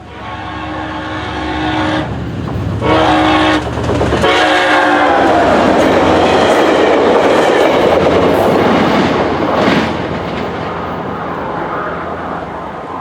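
Train horn sounding two short blasts and a longer third, then the train passing close by with loud wheel rumble and clickety-clack that fades near the end.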